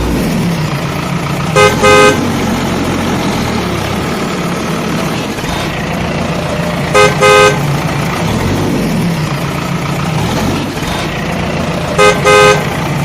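Vehicle horn giving a quick double toot three times, about five seconds apart, over a steady low engine running sound.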